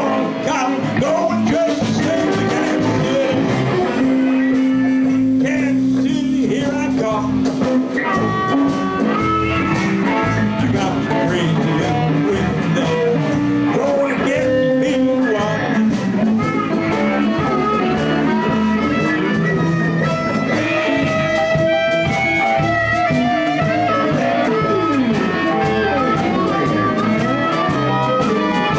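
Live blues band playing an instrumental passage: electric guitar over bass and drums, with sustained held notes from a lead instrument.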